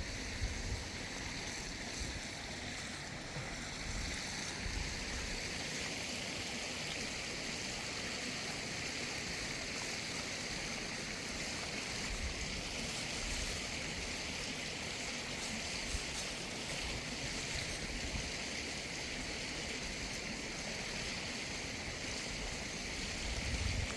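Steady, even rushing of flowing water, like a stream, with no distinct events.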